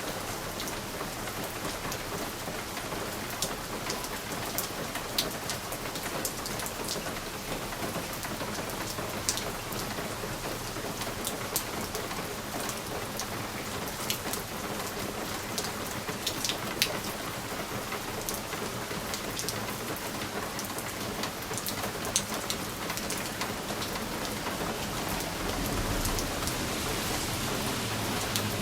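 Steady rain on a window pane: an even patter with many scattered sharper drop ticks. A low rumble builds near the end.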